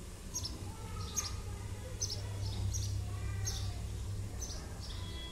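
Small birds chirping outdoors: short, high chirps repeating about once or twice a second, over a steady low hum.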